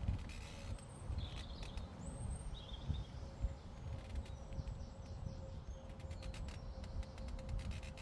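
Small birds chirping a few short high calls over a steady low wind rumble on the microphone, with a run of small crisp clicks toward the end.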